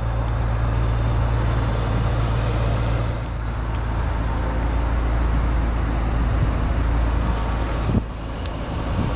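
2008 Ford Mustang GT's 4.6-litre V8 idling steadily.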